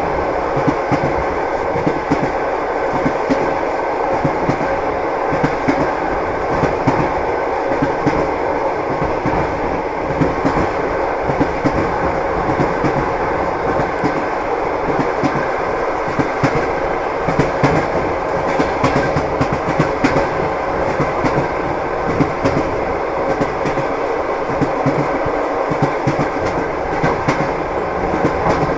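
Train running along the rails: a steady rumble with the repeated knocking of wheels over the rail joints.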